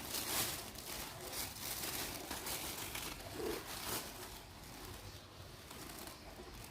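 Thin plastic shopping bag rustling and crinkling as a cat moves inside it: a run of crackly bursts over the first four seconds, then fainter rustles.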